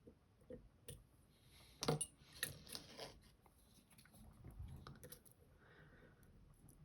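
Faint, scattered metallic clicks and scraping of a lock pick working the spring sliders of an M&C Color+ dimple lock's sidebar, with one sharper click about two seconds in.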